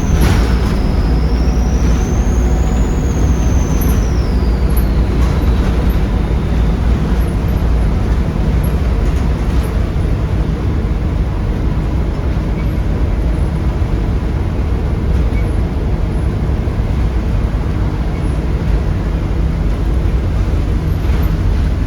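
Volvo D7C 7.3-litre diesel of a Volvo B7RLE bus running under way, heard on board as a steady low drone with road noise. A high turbocharger whistle over it dips, rises again, then falls away in pitch and fades about six seconds in.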